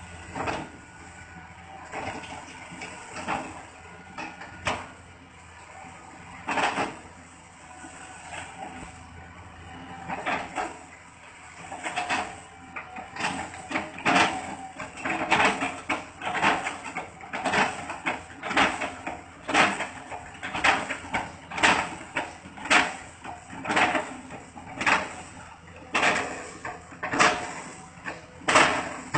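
CAT excavator chipping old oil palm trunks for replanting: repeated chopping impacts, a few at first, then about one a second from roughly the middle on, over a steady background noise.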